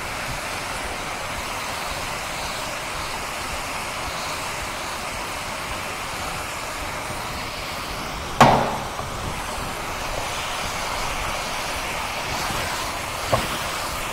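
Shredded burdock root and shiitake sizzling steadily as they stir-fry in a nonstick frying pan. A sharp knock comes about eight seconds in, and a lighter one near the end.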